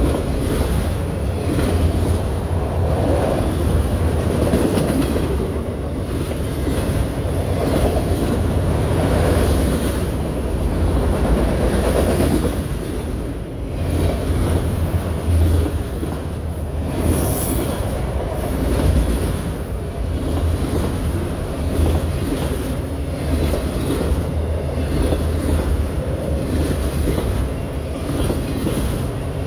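Freight train of enclosed autorack cars rolling past at close range: steel wheels on rail make a steady rumble and clatter, with clickety-clack over rail joints.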